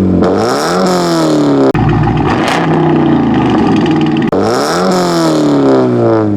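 Car engine revved several times, the exhaust note climbing and then falling back toward idle each time.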